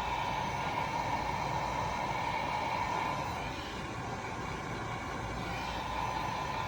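Heat gun blowing steadily, heating the heat-shrink tubing over a crimped battery-cable lug.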